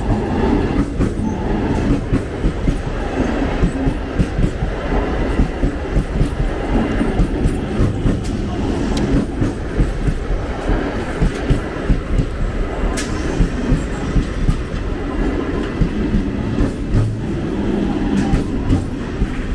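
Eastern Railway electric multiple-unit (EMU) local train passing close by, its wheels clattering rhythmically over the rails at the level crossing along with the steady rumble of the coaches.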